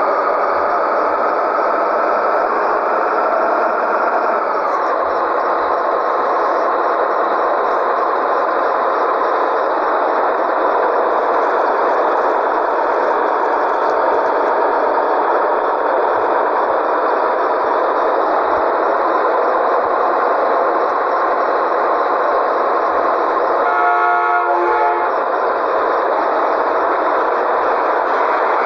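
Scania 113G truck's inline-six diesel running steadily under way, with a high steady whine over the engine drone that drops in pitch about four seconds in. A brief pitched tone, like a horn, sounds for about a second near the end.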